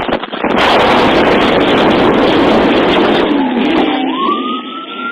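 Loud rushing noise with crackles from a moving police car, then about four seconds in a police siren starts, its wail sweeping up and holding high.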